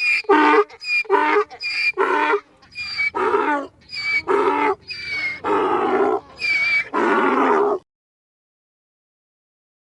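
Donkey braying: a rhythmic run of hee-haw calls, the later ones longer, stopping about eight seconds in.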